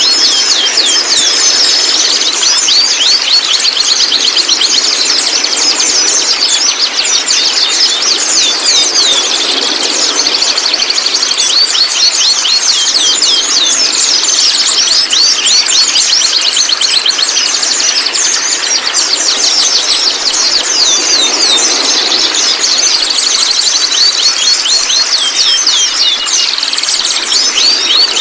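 White-rumped shama calling and singing in a continuous, dense chatter of rapid, high, downward-sweeping notes.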